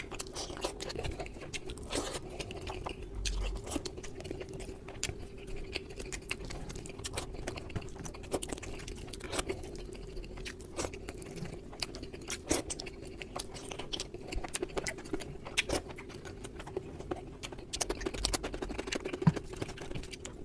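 Close-miked mukbang eating sounds, sped up: a person chewing and biting into rice curry and chicken, with many quick wet mouth clicks and smacks over a steady low hum.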